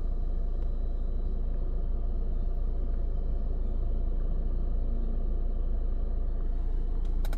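Istobal FLEX5 touchless car wash running its triple-colour polish pass, heard from inside the car's cabin as a steady low rumble.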